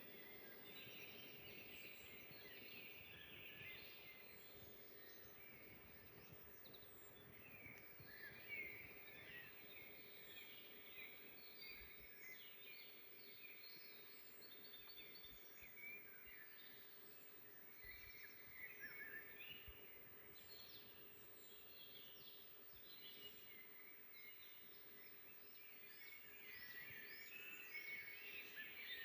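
Faint forest birdsong: several small birds chirping and singing over one another in quick short phrases, with a low steady hum underneath.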